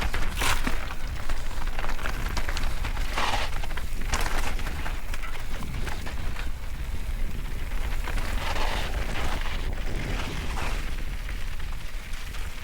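Mountain bike ridden down a wet trail: wind buffets the microphone in a steady low rumble, while tyres on wet dirt and stones and the bike's rattling over bumps give irregular bursts of noise and clicks.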